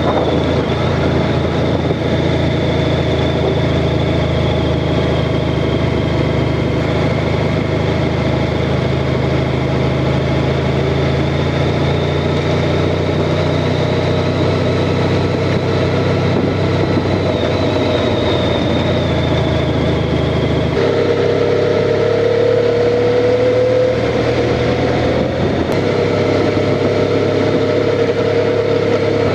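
Honda Crosstourer's V4 engine running steadily under way. About two-thirds of the way through the engine note changes abruptly, and a higher tone then slowly rises.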